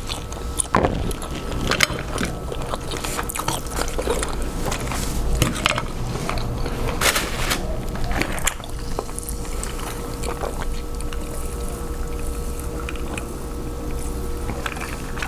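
Close-up eating sounds of a person eating crab from a seafood boil: scattered sharp clicks and crackles of shell and chewing, over a steady low hum.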